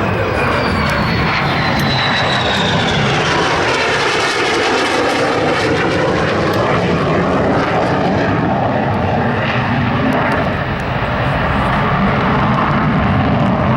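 F-35A Lightning II's single turbofan jet engine in a flypast, a loud continuous roar. In the first few seconds a high whine falls in pitch as the jet passes, then the roar carries on.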